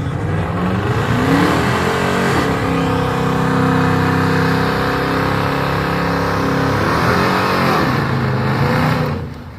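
A car engine revving up, held steady at high revs for several seconds, then dropping back and falling away near the end.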